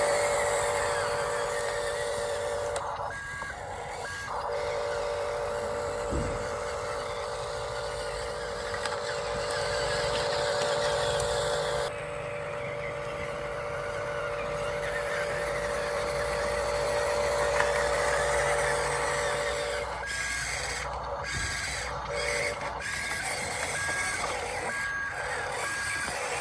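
Electric motors of radio-controlled toy construction machines whining steadily with a gear hiss, cutting out briefly about three seconds in and stopping about twenty seconds in. Then comes a series of short high beeps, like a reversing alarm.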